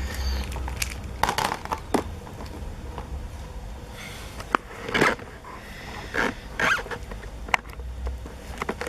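Scattered clicks, knocks and short scrapes of die-cast toy vehicle parts and figures being handled and fitted together.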